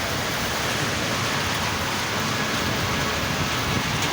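Steady medium rain falling and pattering on surfaces, an even hiss throughout.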